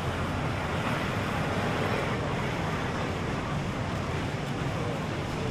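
Steady seaside ambience: continuous surf and wind noise mixed with road traffic, with no distinct events.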